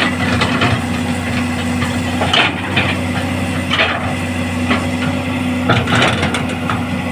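Caterpillar excavator's diesel engine running steadily under load, with several sharp metallic clanks from the machine as it works in the mud.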